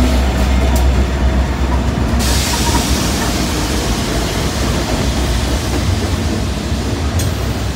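BNSF diesel locomotives hauling a double-stack intermodal freight train past at close range: a loud, steady low engine rumble mixed with the rushing noise of steel wheels on the rails.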